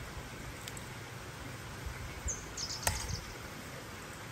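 Outdoor ambience with a small bird giving a few short, high chirps a little past two seconds in, and a single light click about three seconds in.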